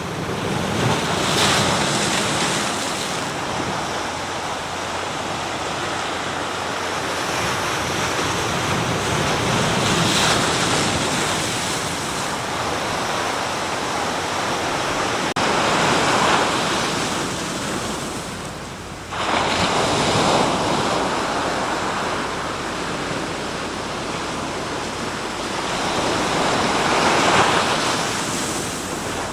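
Sea waves breaking and washing up the shore, the surf swelling and easing every several seconds. One break comes in suddenly about two-thirds of the way through.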